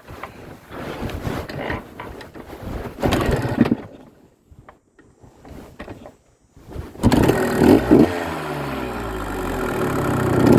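Irregular scuffing and knocking, then about seven seconds in the freshly rebuilt Kawasaki KDX200's two-stroke single-cylinder engine starts and runs loud, blipped several times with the pitch falling back after each.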